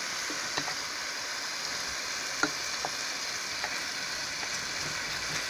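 Chicken pieces and sliced onion sizzling steadily in a frying pan, with a few light clicks and scrapes as a plastic spatula turns them.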